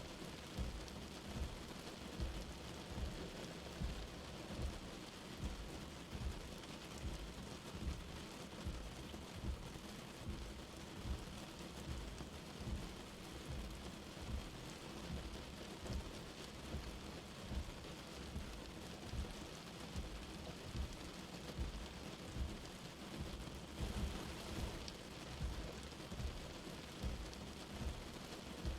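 Light rain falling steadily, an even hiss. Under it are soft low thuds, a little more than one a second.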